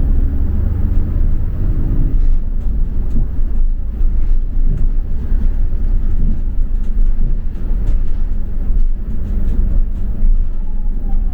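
Double-decker bus under way: steady low engine drone and road rumble, with a pitched engine note that fades out about two seconds in.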